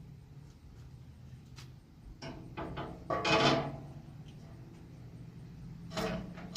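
Handling noise from loading gear onto a hitch-mounted motorcycle carrier: scattered light knocks, a louder scraping rub about three seconds in and a clunk near the end, over a low steady hum.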